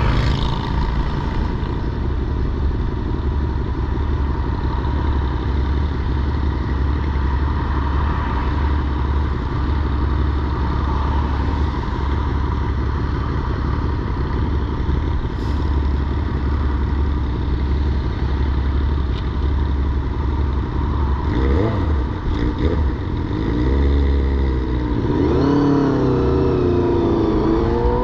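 Honda VFR800Fi's V4 engine heard from the bike, running steadily at low road speed, then revving up in several rising sweeps near the end as the motorcycle accelerates away.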